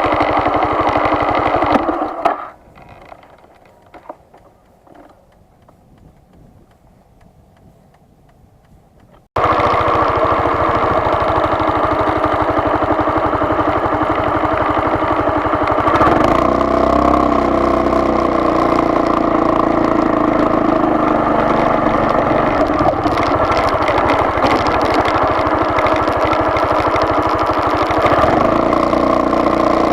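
A vehicle's engine running steadily. It falls away about two seconds in to a much quieter stretch, then comes back abruptly about seven seconds later, with a change in its tone near the middle.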